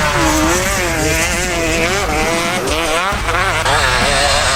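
Off-road vehicle engine revving hard, its pitch rising and falling over and over, with a brief dip in the lowest notes a little past the middle.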